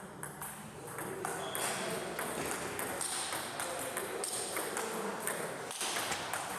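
Table tennis balls clicking off paddles and the table, many short sharp clicks at irregular spacing.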